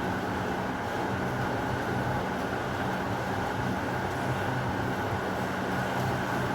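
Heavy rain falling steadily, a dense, even hiss with a low rumble underneath; no thunderclap stands out.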